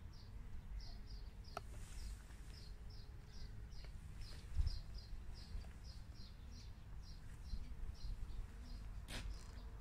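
A small bird chirping over and over, short high chirps about three a second, faint over a low background rumble. There is a soft low thump about halfway through.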